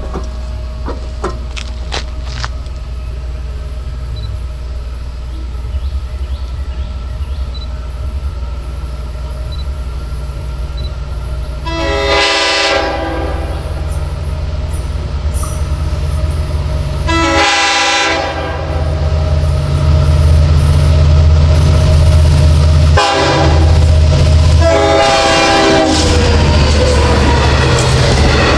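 Long Island Rail Road DM-30AC diesel locomotive approaching a grade crossing. Its engine rumble grows steadily louder, and its multi-tone air horn sounds the crossing signal: long, long, short, long. As the locomotive reaches the crossing near the end, wheel-on-rail clatter comes in.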